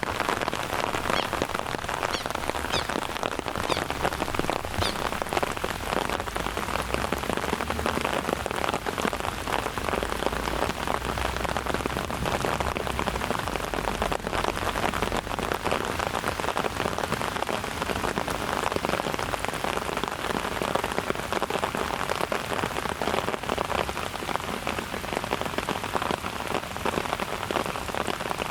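Steady rain falling, heard as a dense even hiss with many small drop impacts.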